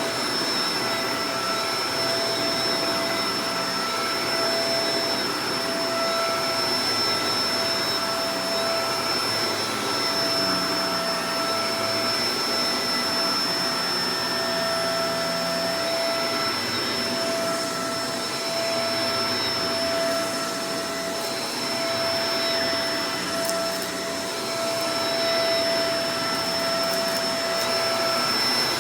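Shark Professional Powered Lift-Away DLX (NV586) vacuum cleaner running steadily: a rush of air with a constant motor whine and a thin high whistle above it.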